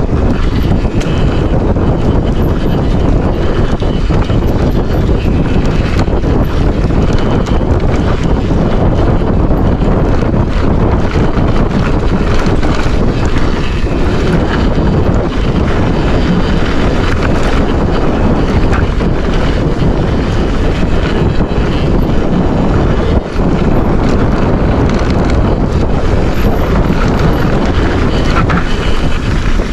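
Heavy wind buffeting on the camera microphone of a mountain bike riding downhill, a loud rumbling rush with small dips and faint high squeaks.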